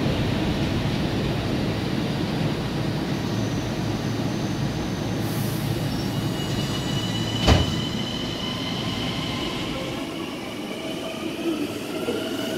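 Long Island Rail Road Kawasaki M9 electric train at the platform: a steady hum and rumble with one sharp knock about halfway through. Near the end a rising whine sets in as the train starts moving and picks up speed.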